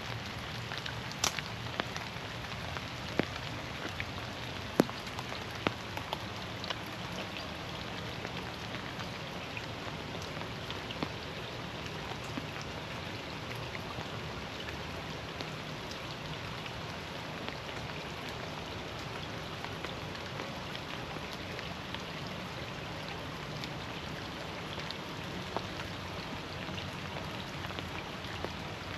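Steady rain falling in a forest, with scattered single drops landing close by as sharp taps, most of them in the first several seconds.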